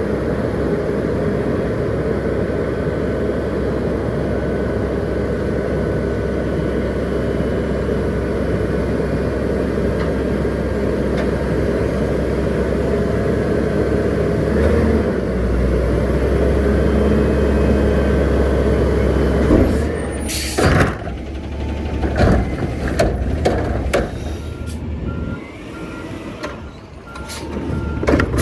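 Garbage truck engine running steadily, its low rumble stepping up about halfway through. Later come a hiss of air brakes and a few clanks, and near the end a backup alarm beeping at a steady pace.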